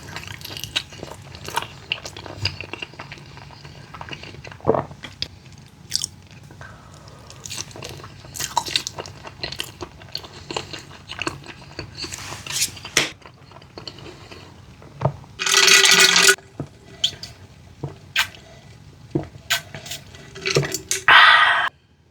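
Close-miked eating: irregular chewing, crunching and wet mouth sounds from bites of snack food. A louder noisy burst of about a second comes roughly two-thirds of the way through, and a shorter one near the end.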